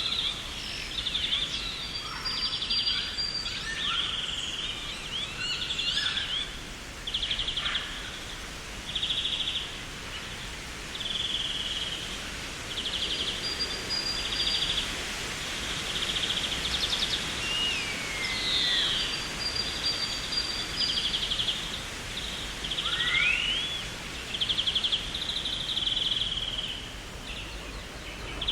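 Garden birds singing: one bird repeats a short, buzzy trill about once a second, while others add scattered chirps and whistles, including a falling whistle about two-thirds through. A steady background hiss lies under the song.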